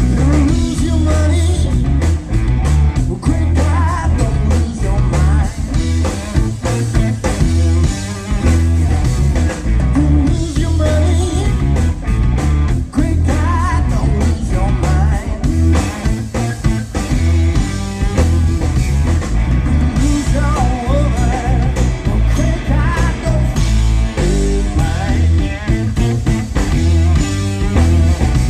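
Live blues-rock band playing loudly: electric guitar over bass and a drum kit with a steady beat.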